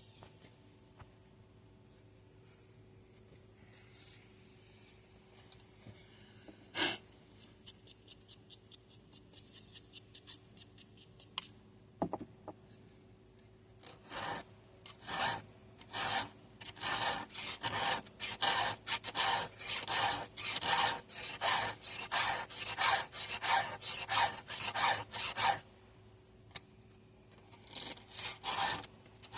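Hand file stroking across a chainsaw chain's cutters, a regular rasp of about two strokes a second that starts about halfway through, pauses briefly and starts again near the end. Crickets chirp steadily throughout, and there is a single sharp click early on.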